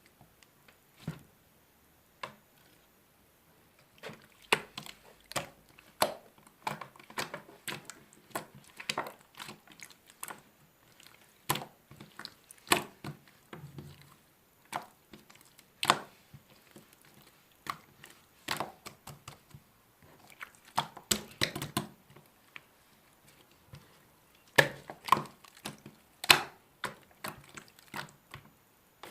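Slime being squeezed and poked by hand, making irregular sticky clicks and pops in clusters with short pauses between.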